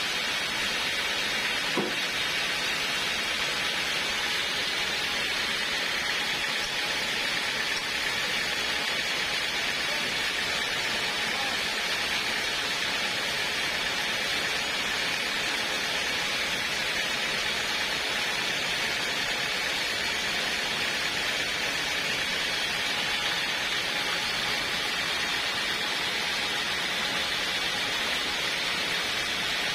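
Portable sawmill running steadily, an even hiss-like noise with no change in level.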